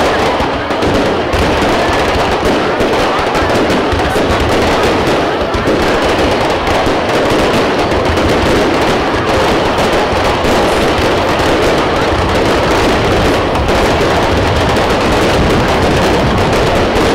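Fireworks display: a dense, continuous barrage of rapid bangs and crackling from aerial shells and crackling stars, with no pause throughout.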